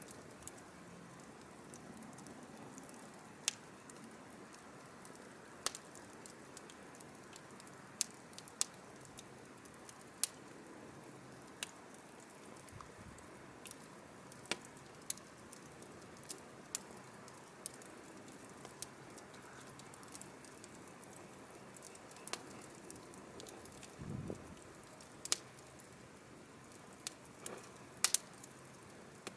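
Burning firewood crackling: sharp irregular pops and snaps, a couple of dozen of them, over a soft steady hiss of the flames.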